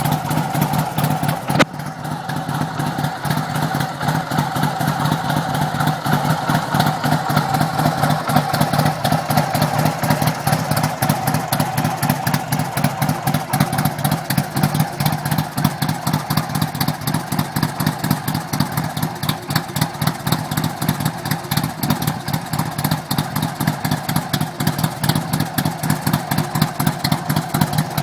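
Harley-Davidson V-twin motorcycle engine idling steadily with an even pulsing beat. There is a single sharp click about one and a half seconds in.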